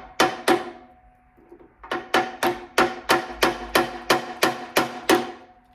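A hammer striking the steel chuck of a Rockwell Delta drill press, meant to knock the friction-fit chuck off its spindle. Each blow rings metallically. There are two blows, a short pause, then about eleven steady blows at roughly three a second.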